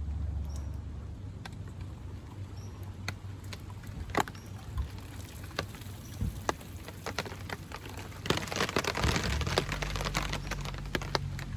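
Raindrops pattering irregularly on a tarp, as scattered sharp ticks with a denser flurry about eight seconds in, over a low steady hum.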